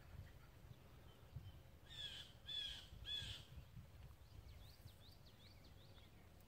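Three harsh bird calls about half a second apart, a couple of seconds in, followed by a faint quick series of small chirps; a low wind rumble runs underneath.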